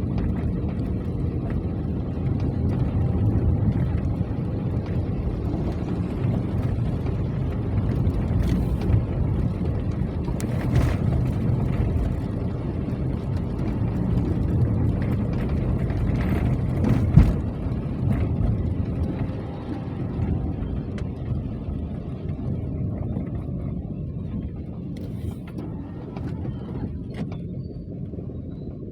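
Rain falling, heard as a steady low rumbling noise with a few sharp ticks, growing quieter over the last third.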